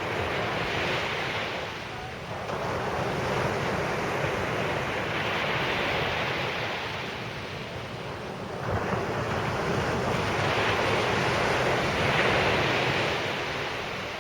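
Sea surf on a sand beach, waves breaking and washing in surges that rise and fall every few seconds. Wind buffets the microphone.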